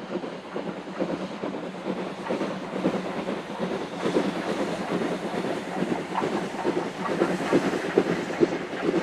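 A train running on the line, its wheels clattering over the rails, growing louder from about four seconds in.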